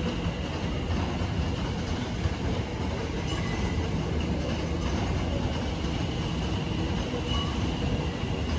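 A train moving at a station platform: a steady low rumble of wheels and traction, with a faint steady high whine over it.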